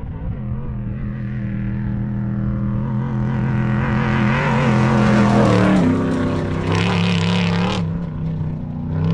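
Off-road vehicle engine running at speed at a steady pitch, under a rising rush of wind and tyre noise. A little past halfway the engine note drops. A loud rush of noise cuts off sharply about eight seconds in.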